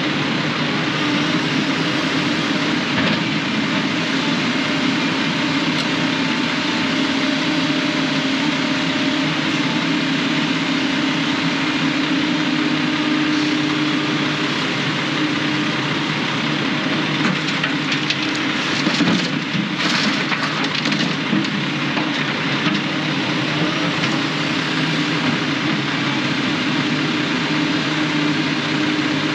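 Dump truck driving under way: a steady engine drone over road and cab noise.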